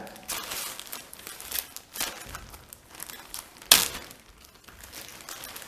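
Plastic packaging crinkling as a toy is handled, with small clicks and one sharper click about two-thirds of the way through.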